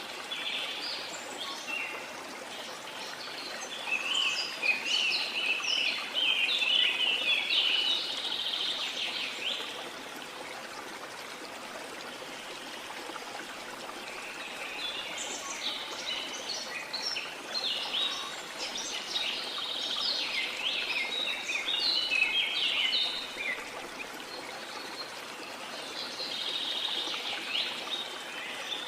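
Birds singing in rapid chirping bursts over the steady rush of a waterfall, with two long spells of song and a shorter one near the end.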